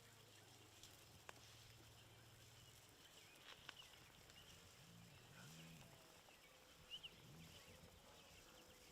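Near silence, with faint bird chirps and a few small clicks.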